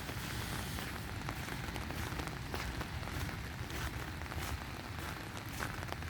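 Steady rain falling, with scattered drops ticking close by over an even hiss and a low rumble underneath.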